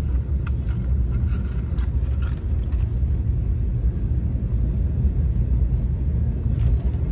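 Freight train going by, a steady low rumble, with a few light clicks in the first few seconds.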